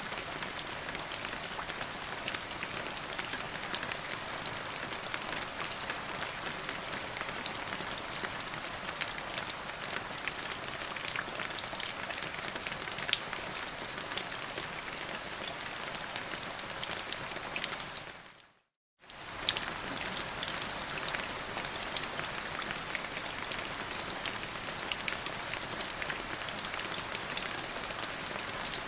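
Steady rain falling on a surface, a dense hiss with many sharp individual drop hits. About two-thirds of the way through it fades out to silence for about half a second, then comes back.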